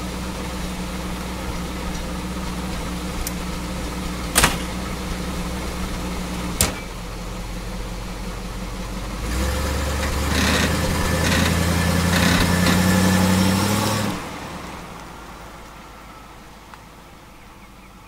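A Chevy small-block V8 idling, with a door-shutting thump about four seconds in and a lighter knock soon after. About nine seconds in the engine pulls away under load, louder and rising slightly in pitch, then drops off and fades as the car drives off.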